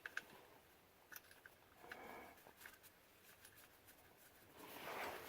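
Near silence with a few faint, brief clicks and small handling noises of a steel drain plug and copper crush washer being handled.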